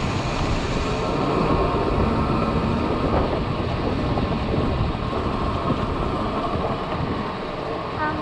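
Wind and road noise from riding a motorcycle up a rough hill road: a steady, dense rumble on the helmet-mounted microphone, with no breaks.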